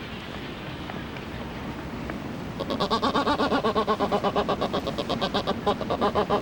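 Black-browed albatross calling in a rapid, pulsed, bleating series of about seven pulses a second. The call starts about two and a half seconds in, over steady background noise, and stops near the end.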